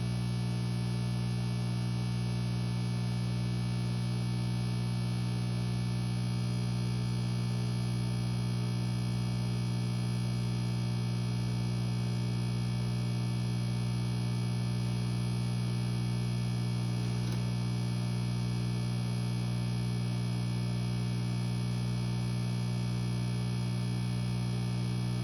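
Aquarium air pump (bubbler) humming with a steady, even electrical buzz that does not change.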